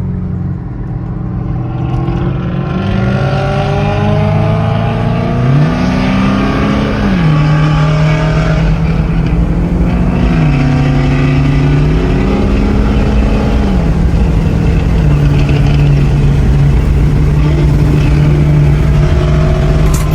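Car engine accelerating through the gears: its pitch climbs and then drops back twice as it shifts up, then holds steady at cruising speed.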